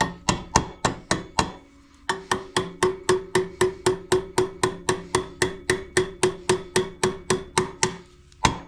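Small hammer tapping on metal, about four blows a second, each blow ringing; the tapping stops briefly twice. It is the sound of a tight-fitting part being driven into place.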